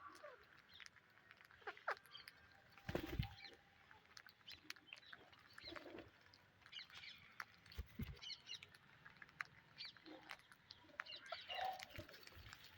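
Parrots giving short, scattered high chirps, with a couple of soft low thumps along the way.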